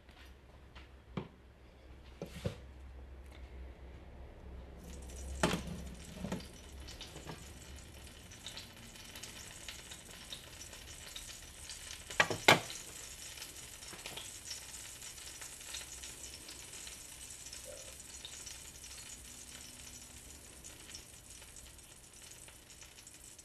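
Food frying in oil: a steady sizzle that starts about five seconds in and carries on. A few sharp clicks and knocks of dishes sit over it, the loudest two close together near the middle.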